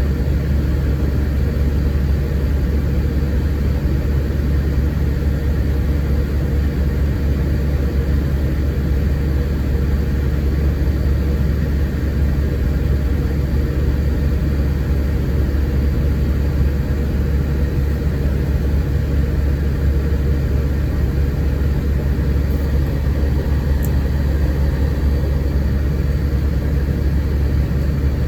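Scania K410 coach's diesel engine running steadily with road and tyre noise, heard from inside the cabin; a deep drone that holds an even pitch, as at a constant cruising speed.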